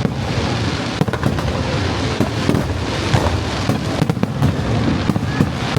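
Fireworks display: a continuous barrage of shells bursting, with many sharp cracks and bangs each second over low booms and a steady crackle.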